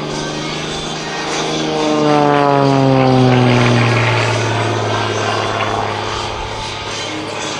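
Propeller-driven Xtreme Air XA41 aerobatic monoplane running at power as it flies past. Its engine and propeller note drops in pitch and is loudest about two to four seconds in, then settles steadier.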